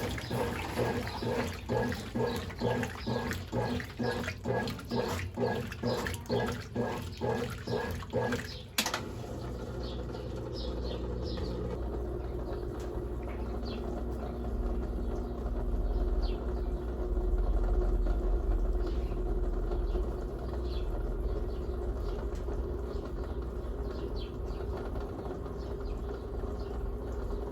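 Brastemp Ative 11 kg washing machine agitating at about two strokes a second, then stopping abruptly after about nine seconds; a steady low hum with running water follows.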